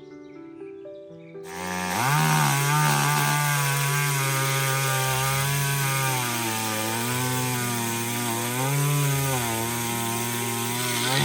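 A small engine or motor running with a buzzing drone whose pitch wavers slowly up and down, starting abruptly about a second and a half in, over a steady hiss. Soft music notes play before it.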